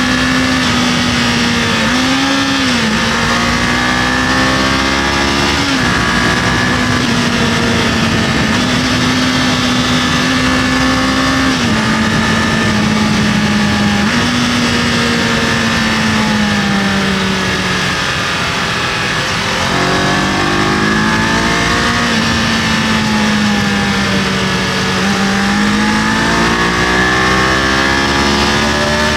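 Kawasaki KLE500 parallel-twin engine under way, its note changing pitch in steps as gears change and sliding up and down with the throttle; it sags about two-thirds of the way through, then climbs again. Steady wind and road noise underneath.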